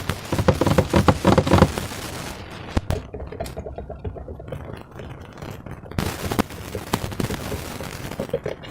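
Slime being squeezed and worked by hand, giving dense crackling and popping in the first two seconds, then scattered sharp clicks and crackles.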